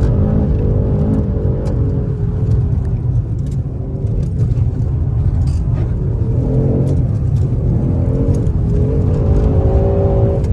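Car engine revving hard and repeatedly, its pitch climbing and dropping as the driver works the throttle, heard from inside the cabin over a heavy low rumble. Scattered short knocks and clicks sound through it.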